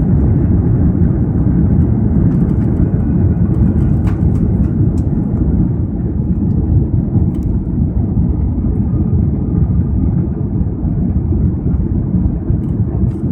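Airbus A330-300 cabin filled with a loud, steady low rumble on the ground after touchdown, easing slightly near the end as the jet slows on the runway.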